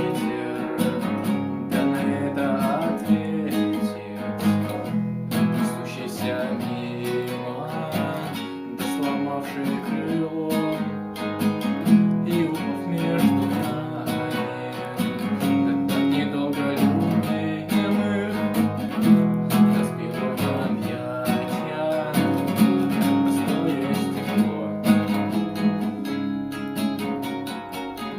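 Acoustic guitar strummed and picked steadily, an instrumental passage of a song.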